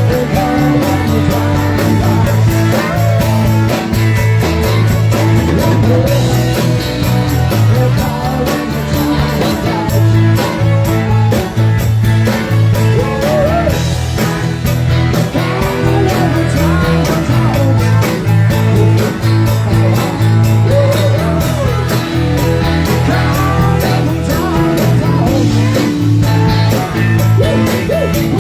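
Live rock music: a band playing a steady beat with electric guitar, bass and drums, a wavering melody line running over them.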